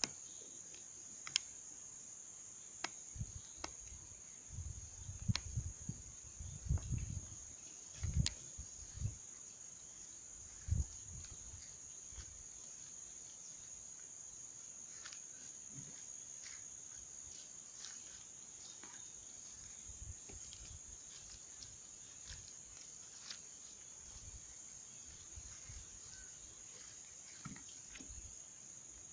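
Insects trilling in one steady high-pitched drone, with a few low rumbles and thumps in the first ten seconds and scattered faint clicks.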